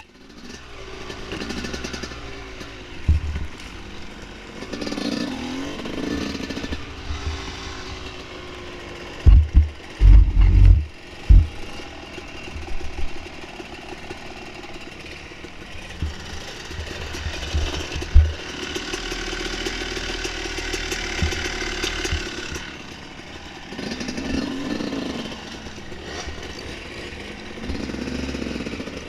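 Dirt bike engine revving up and down as it rides a trail, broken by several heavy low thumps around three seconds in, between about nine and eleven seconds in, and about eighteen seconds in.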